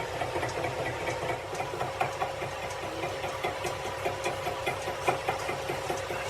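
A machine running steadily, with a constant hum and a quick, even clatter of about five beats a second.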